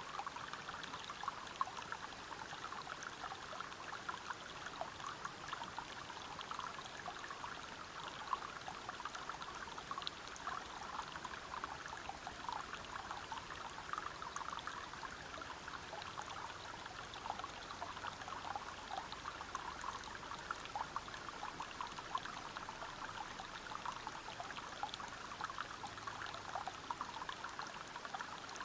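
Water flowing and splashing over rocks, a steady babble thick with small splashes.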